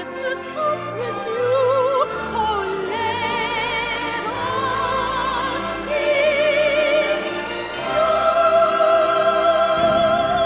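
Classical-style singing with orchestral accompaniment: a single voice with a wide vibrato sings a melodic line, then holds long notes that grow louder toward the end.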